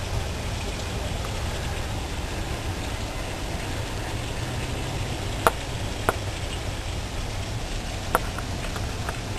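Heavy tropical-storm rain falling steadily, with a low rumble underneath. A few sharp drip taps come in the second half.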